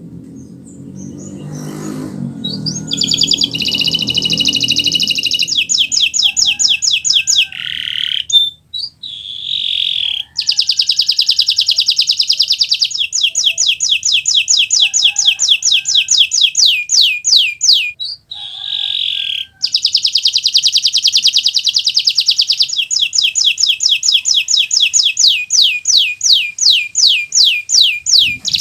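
Domestic canary (Kenari Nusantara) singing non-stop in long, high-pitched rolling trills, interspersed with runs of repeated sweeping notes at about five a second and a few brief pauses. A faint low rumble sits under the first few seconds.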